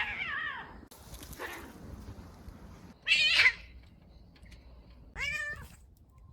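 Domestic cats squaring off and vocalising: a falling yowl at the start, a hiss about a second in, a loud harsh cry about three seconds in, and a shorter meow near the end.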